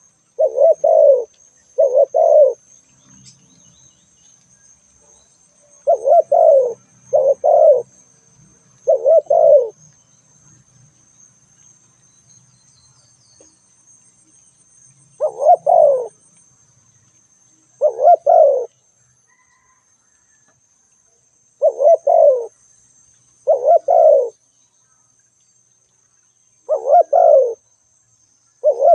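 Spotted dove cooing: short, mellow coos in groups of two or three, each group repeated after a pause of a few seconds. A faint steady high-pitched tone runs underneath.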